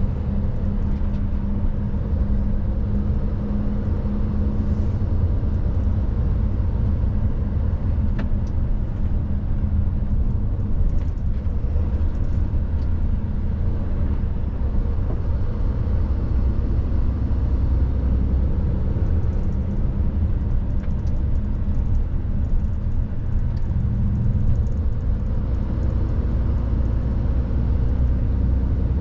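Mercedes truck's diesel engine and road noise while driving: a steady low drone and rumble.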